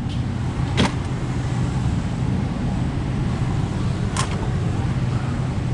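Steady low rumble of a running motor vehicle, with two brief sharp clicks, one about a second in and one about four seconds in.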